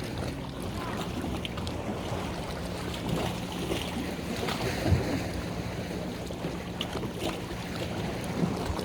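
A boat's engine humming steadily, with wind buffeting the microphone and water washing, and a few faint knocks.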